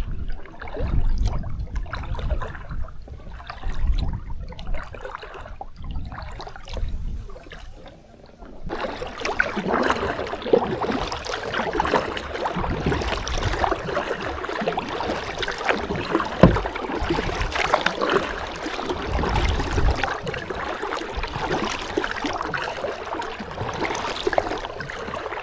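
Kayak paddling on a river: water splashing and trickling off the paddle blades as the sit-on-top kayak moves along. For the first part a low rumble comes and goes every second or two; about nine seconds in the sound changes suddenly to a steadier, brighter splashing.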